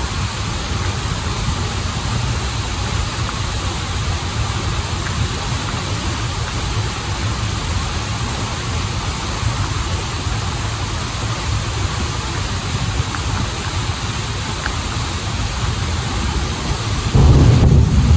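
Waterfall and river water rushing steadily, with a deep rumble under a constant hiss. About a second before the end a sudden, louder low rumble comes in.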